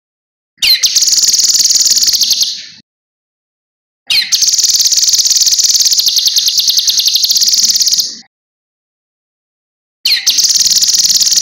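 Cucak kinoi singing: three bouts of a fast, high trill, each opening with a quick downward sweep, separated by silent gaps. The longest bout, in the middle, lasts about four seconds.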